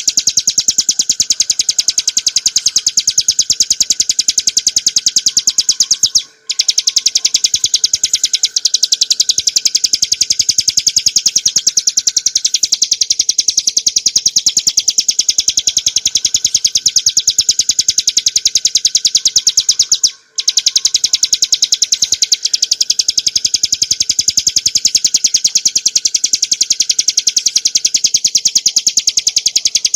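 Bar-winged prinia (ciblek gunung) singing a rapid, continuous high-pitched trilling chatter, with two brief breaks.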